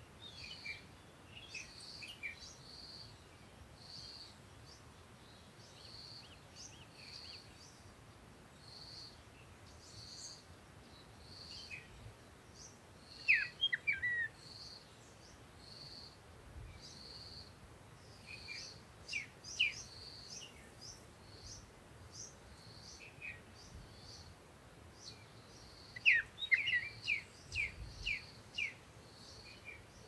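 Songbirds chirping in a garden: a short high note repeats about once a second, with louder bursts of quick falling chirps about 13 seconds in and again near the end, over a faint low background hum.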